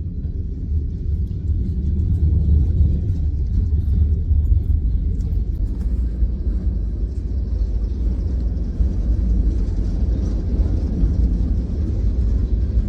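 A passing train's steady deep rumble.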